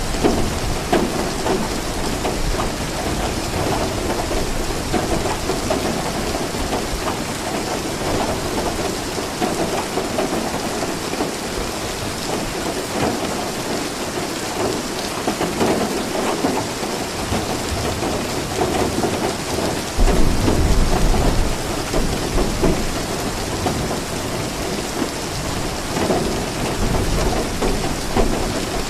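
Steady rain falling, with low rumbles of thunder, the loudest about two-thirds of the way through and another near the end.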